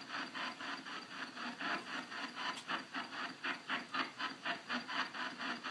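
Radio-sweep spirit box scanning through stations, giving a steady chop of brief static bursts at about four a second.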